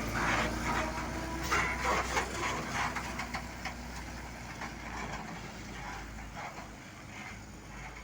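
Scania truck's diesel engine running steadily, growing fainter and dropping away near the end.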